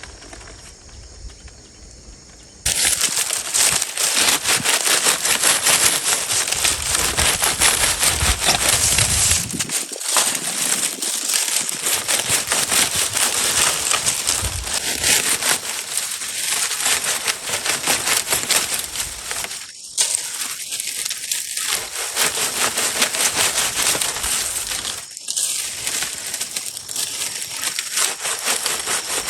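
Dense crackling and crunching noise, made of many fine clicks, that starts suddenly about three seconds in and keeps going, with short breaks about ten, twenty and twenty-five seconds in.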